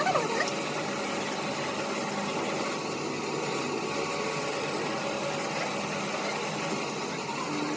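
A machine running steadily with an even engine-like hum, and a short falling whine about the first half-second.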